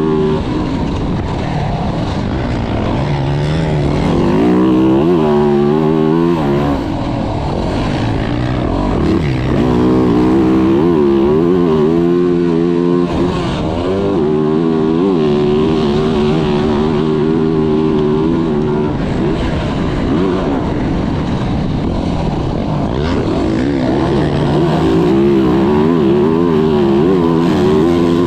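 Yamaha YZ450F four-stroke single-cylinder motocross engine under hard riding, its pitch climbing and dropping over and over as the throttle is opened and closed through the shifts.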